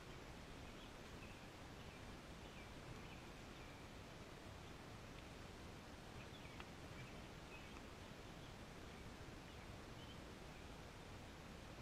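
Near silence outdoors: a steady faint hiss of background noise with scattered faint bird chirps.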